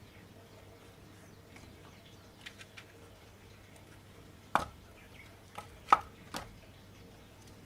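Wooden knocks of firewood being handled: a few faint clicks, then four sharp knocks in about two seconds, the loudest near the end.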